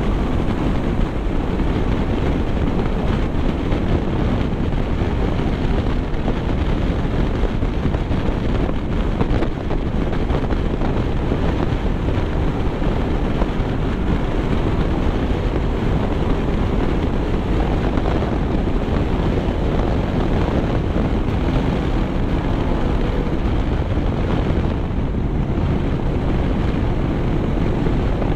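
Steady rumble of wind and road noise from a vehicle travelling at speed, with wind buffeting the microphone.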